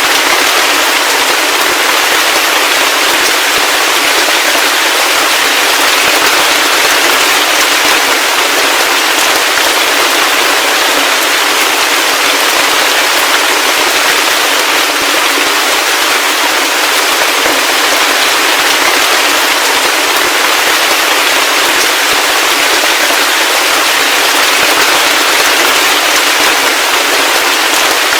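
Heavy rain falling steadily, a dense patter of countless small drop impacts with no let-up.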